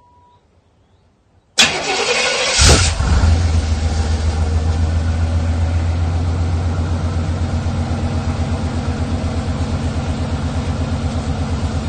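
A vehicle engine cranks on its starter for about a second, then catches and settles into a steady idle with a deep, even throb.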